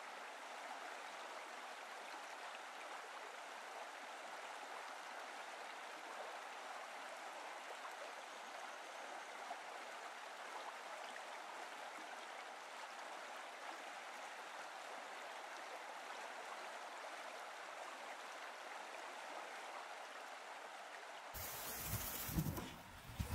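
Faint, steady rush of flowing water, like a stream. Near the end it gives way to wind rumbling on the microphone.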